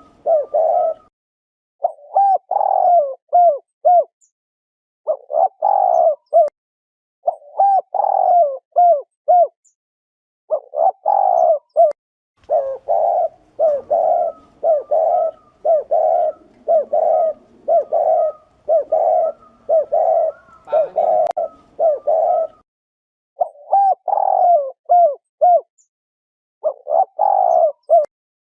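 Spotted dove cooing its 'thổ rền' song: phrases of three or four short coos repeated every two to three seconds, with a denser unbroken run of coos in the middle stretch.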